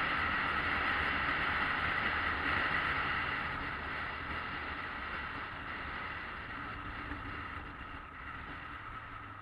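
Steady rushing wind and road noise of a motorcycle ride, with a low engine rumble underneath, gradually getting quieter.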